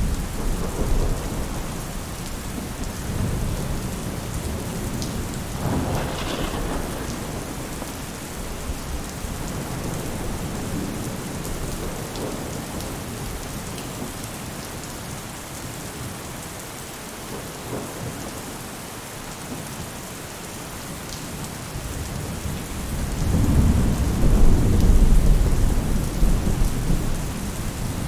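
Steady rain falling on a roof, with thunder rumbling; a long low roll of thunder swells near the end and is the loudest part.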